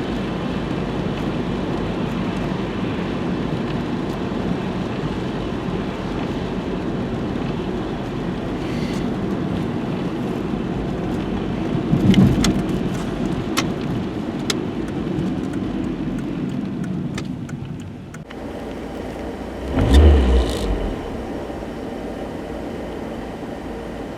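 A car running, with a steady low rumble of engine and road noise. It eases off about 18 seconds in, and a loud low thump comes shortly after.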